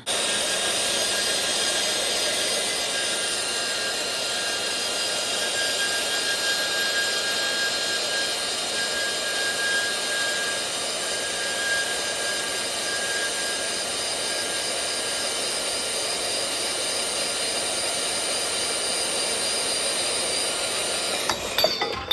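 Angle grinder running steadily with a high whine as it grinds steel, taking material off bent shock-hoop tubes to fit them to the truck frame; it stops near the end.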